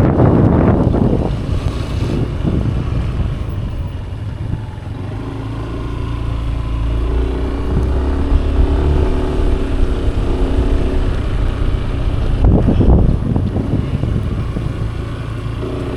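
Motorcycle engine running steadily under way, with wind buffeting the microphone in loud gusts at the start and again near the end.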